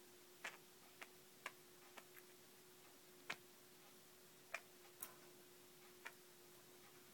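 Budgies making faint, short, sharp tick-like sounds at uneven intervals, about nine in all, over a faint steady hum.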